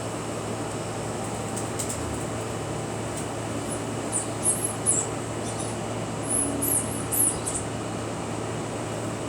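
A steady background hum and hiss, with two short bursts of very high squeaky chirps, about four seconds in and again around seven seconds.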